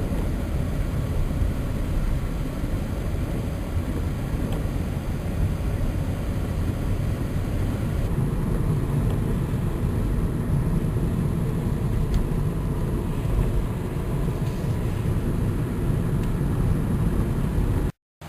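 Steady low rumble of a car driving, heard from inside the cabin. The sound cuts off abruptly just before the end.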